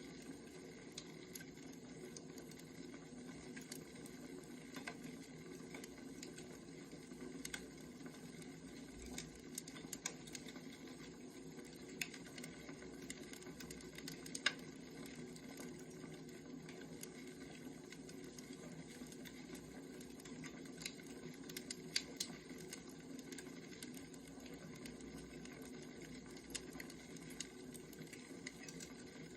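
Firewood burning, crackling: a steady low hiss with scattered sharp snaps and pops, a few of them louder, around the middle.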